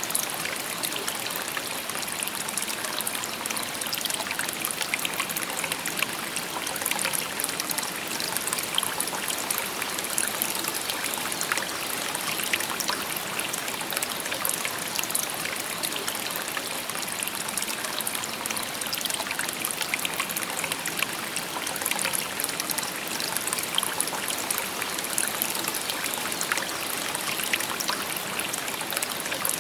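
Shallow river babbling steadily: a continuous rush of water with many small trickles and splashes.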